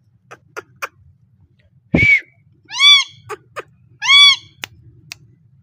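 Parrot giving two loud calls about a second apart, each rising then falling in pitch, with short clicks before and after and a sudden shorter call about two seconds in.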